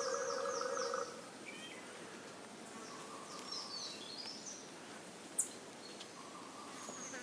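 Dusk forest ambience: small birds calling in clusters of short, falling high chirps, over a steady pulsing insect drone that stops about a second in. A single sharp click comes a little past the middle.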